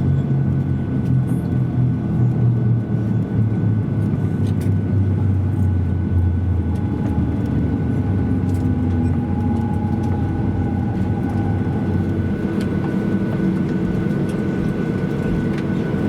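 Steady engine hum and rumble inside the cabin of a Boeing 737-800 with CFM56-7B engines, as the airliner rolls out after landing. A strong low hum sits under fainter steady whines.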